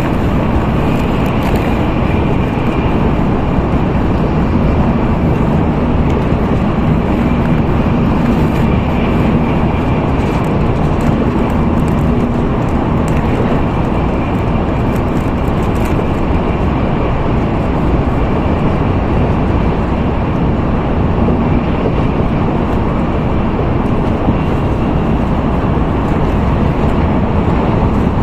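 Steady running noise inside the cabin of an N700A Shinkansen train at speed: a constant loud rumble and hiss with a faint steady hum.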